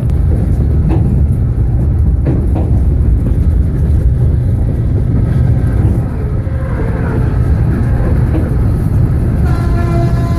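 Steady low rumble of a fast-moving passenger train heard from aboard. Near the end the train's horn sounds as a steady pitched blast.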